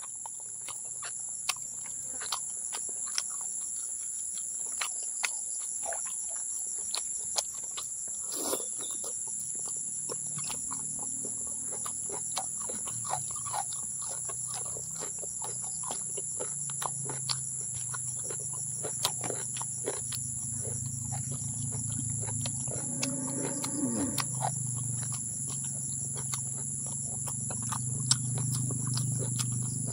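Close-up eating sounds of a person chewing boiled cow skin and raw long beans: many short, irregular crunches and clicks. A steady high trilling of insects runs under them.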